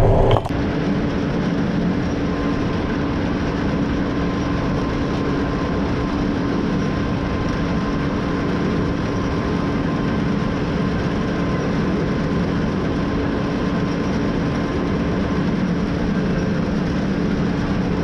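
John Deere 9500 combine harvester running steadily while cutting soybeans: a constant drone of engine and threshing machinery with a steady whine.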